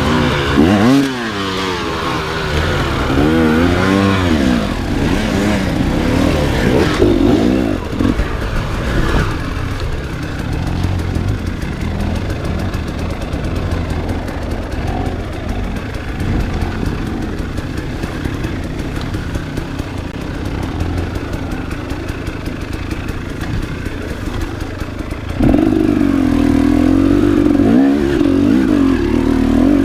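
Enduro motorcycle engine under riding load, its revs rising and falling sharply with the throttle for the first several seconds. After a rougher, quieter middle stretch, it jumps suddenly to loud, high revs about 25 seconds in.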